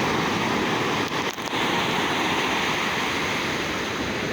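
Ocean surf washing onto the beach: a steady, continuous rush of breaking waves.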